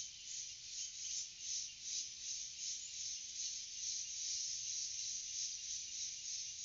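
Forest insect chorus, a dense high-pitched buzzing that pulses about two to three times a second.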